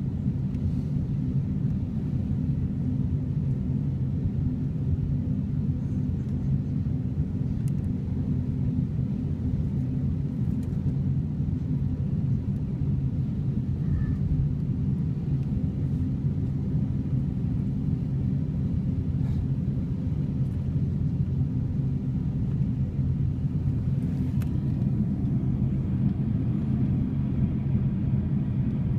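Jet airliner engines idling before the takeoff roll: a steady low rumble with a constant hum.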